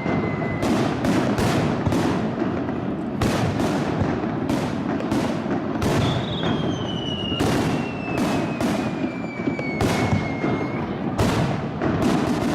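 Rapid-fire aerial fireworks barrage: shells bursting in quick succession, about two or three sharp bangs a second over a steady rumble. A thin, high whistle slowly falls in pitch twice among the bursts.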